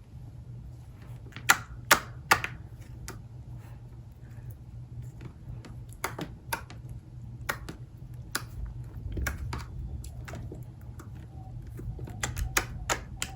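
Slime being pressed and worked by hand, giving irregular sharp clicks and pops, with three loud ones close together about a second and a half in and more clusters later.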